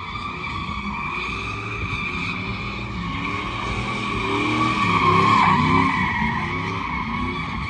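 A vehicle doing a burnout: its spinning tyres squeal steadily over the engine held at high revs. The sound swells to its loudest about five seconds in.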